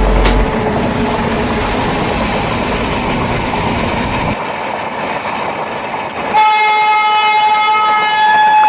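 Passenger train passing at speed with a dense rushing noise, which stops abruptly about four seconds in. About two seconds later a train horn starts a single long, steady blast that is held to the end.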